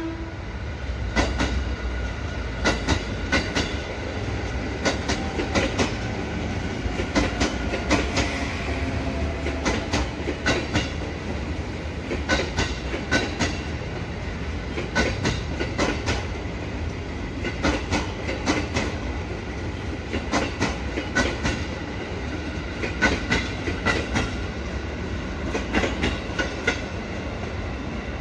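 KRL Commuter Line electric multiple-unit train passing, its wheels clattering over rail joints and points in a long, uneven run of clicks over a steady rumble.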